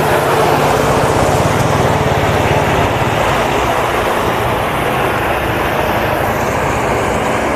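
An off-road 4x4's engine running hard at high revs through the mud course: a loud, steady drone with a rapid pulse underneath.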